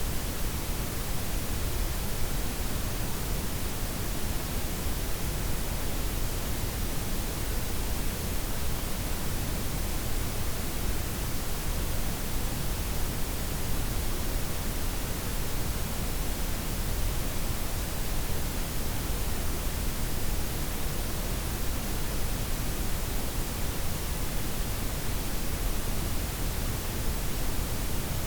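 Steady synthetic noise blend of white, pink and brown noise, an even hiss across the whole range with a fuller low end, unchanging throughout.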